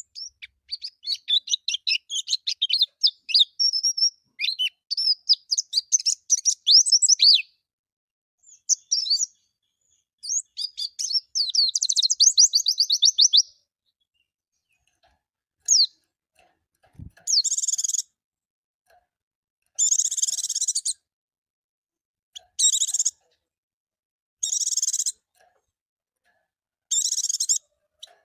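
Pleci (white-eye) song: rapid, varied high twittering for the first several seconds, then a fast trill of down-slurred notes. From about two-thirds of the way in come short harsh, buzzy bursts, repeated every two to three seconds.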